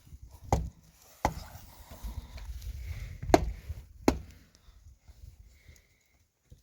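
Axe chopping wood: four sharp blows in two pairs, about a second and a half apart within each pair.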